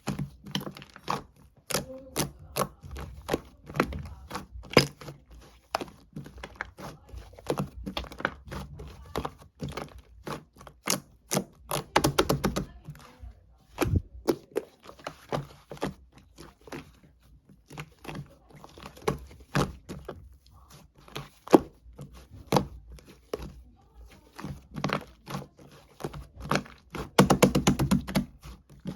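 Slime being squeezed and poked by hand, making a continual run of sticky clicks and pops, with bursts of rapid crackling about twelve seconds in and near the end.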